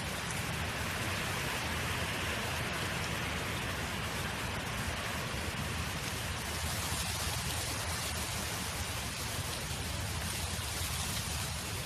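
Steady wind noise: an even rushing hiss with a low rumble underneath, unchanging throughout.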